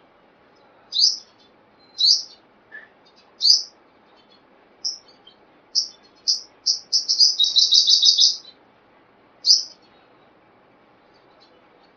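Sunbird calling: loud, sharp, high chirps about a second apart, quickening into a fast trill of chirps about seven seconds in, then one more chirp.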